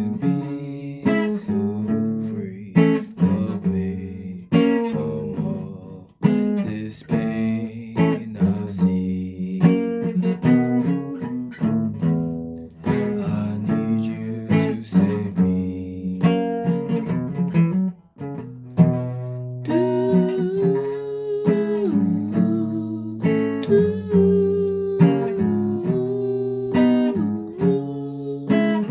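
Guitar strummed in chords, continuous, with brief pauses about six seconds in and again about eighteen seconds in.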